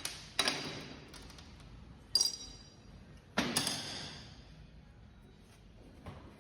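Metal parts clinking against each other while a motorcycle engine is being worked on: four sharp, ringing clinks, two close together at the start, one about two seconds in and the last about three and a half seconds in, then a faint knock near the end.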